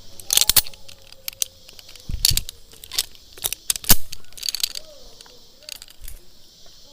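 Irregular sharp metallic clicks and clinks of zipline harness gear (carabiners and trolley) being handled and clipped, about a dozen knocks at uneven intervals.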